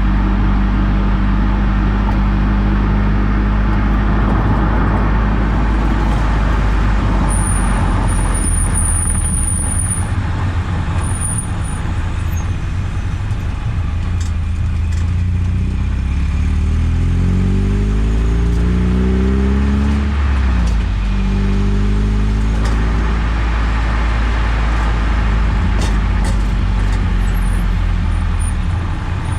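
Eunos Roadster driving, with steady road and tyre noise and a low engine drone. About halfway through the engine note rises under acceleration, drops sharply at a gear change, then climbs again.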